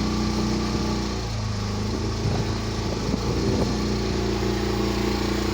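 Boat engine running steadily under way, its note dropping to a lower, steadier pitch about a second in.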